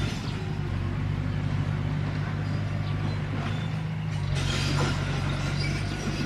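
Komatsu D21P crawler bulldozer's diesel engine running steadily under load, with metallic noise from the tracks and undercarriage that grows louder about four seconds in.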